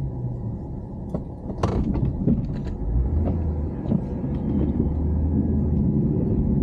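2500HD pickup truck engine running with a steady low drone. A few sharp knocks cut through it, the loudest about one and a half seconds in.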